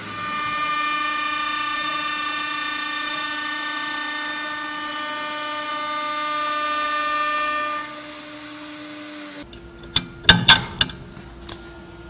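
CNC machine spindle running with a steady, high-pitched whine, louder for most of its run, then dropping and cutting off suddenly; a few sharp clacks follow about ten seconds in.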